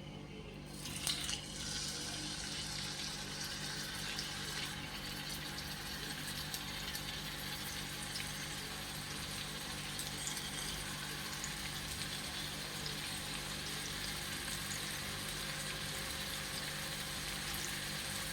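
Marinated chicken pieces frying in hot olive oil in a pan: a steady sizzle that starts about a second in as the chicken goes into the oil, with scattered small crackles.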